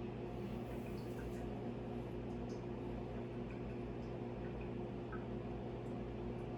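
Faint, scattered drips of coffee falling from a Hario V60 pour-over dripper, over a steady low hum.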